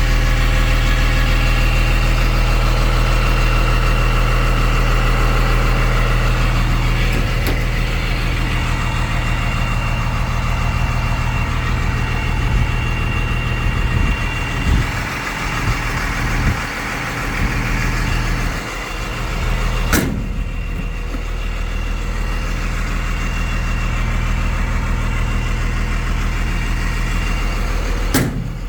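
Ford F650's 5.9 Cummins diesel engine idling steadily, with a thin steady whine above it. A few sharp knocks break in, the loudest about twenty seconds in and another near the end.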